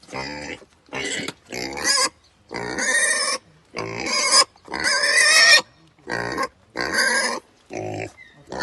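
Pig squealing and grunting in a run of about ten short, loud calls with brief gaps between them.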